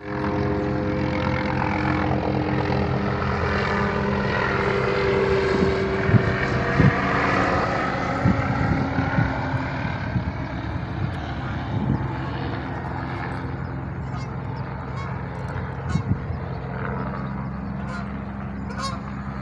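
Police helicopter flying overhead: a steady, droning beat of its rotor, loudest in the first half and easing a little later on, with a few short sharp knocks nearby.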